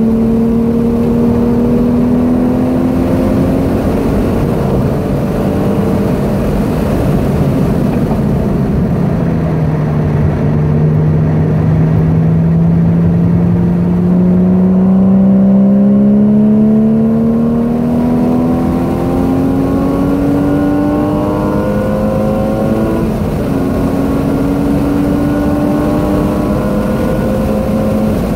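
Porsche 981 Boxster S's 3.4-litre flat-six heard from inside the cabin at track speed: its pitch dips about a third of the way in, then climbs steadily for several seconds as the car accelerates, with tyre and road noise underneath.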